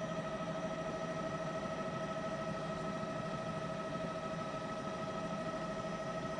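Steady drone of an aircraft cabin, with constant whining tones over an even rushing noise.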